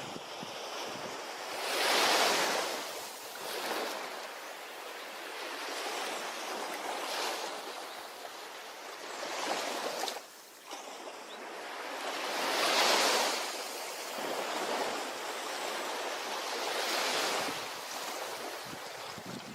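Ocean waves washing onto a beach in a continuous hiss of surf, swelling as waves break about two seconds in, again near the middle and once more toward the end.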